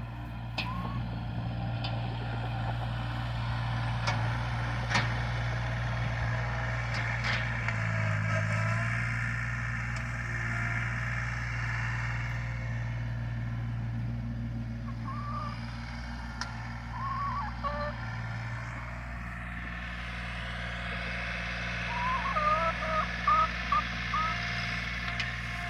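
An engine running steadily, as of a vehicle or machine working at one speed, with short bird chirps in the middle and again near the end.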